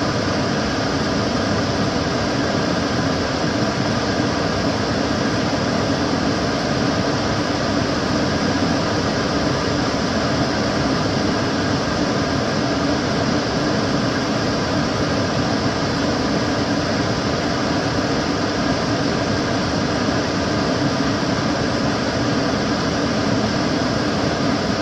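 Kitchen cooker hood extractor fan running steadily, a constant airy rush with a low hum underneath.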